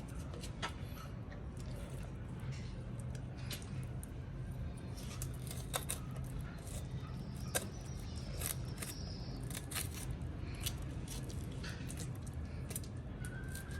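Scattered sharp clicks and snips of hands-on food preparation, coming at irregular intervals over a steady low hum.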